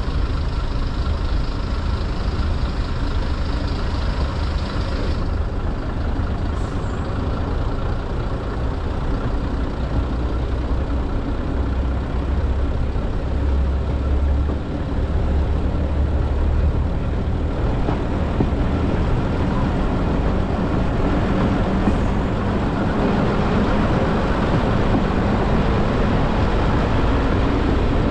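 Diesel heritage passenger train running along the line, heard from an open carriage window: a steady low engine drone with the noise of the wheels on the rails and the rush of air past the coach.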